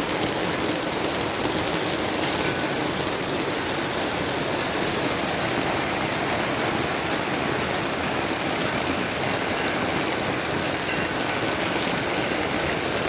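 Steady, even rushing noise of water, like rain or a stream.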